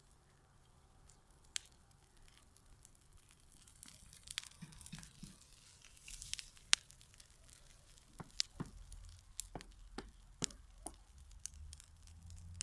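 Bonfire of garden wood and brush burning with irregular crackles and snaps, sparse at first and coming thicker from about four seconds in.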